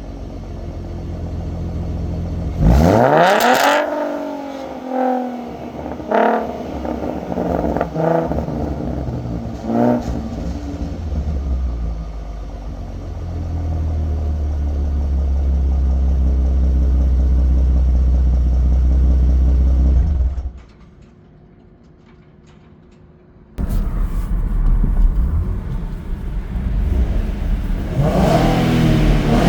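Ford Mustang 3.7L V6 running through a Roush axle-back exhaust: one hard rev about three seconds in, followed by several short throttle blips. It then settles into a steady low drone, drops away briefly about two-thirds of the way through, and comes back with more revving near the end.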